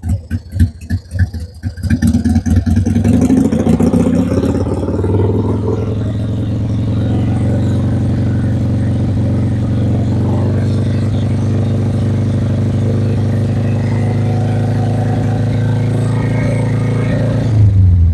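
Motorcycle engine idling with an even pulsing beat, then revved up about two seconds in and held at a steady raised speed while its charging voltage is checked. It drops back to idle near the end.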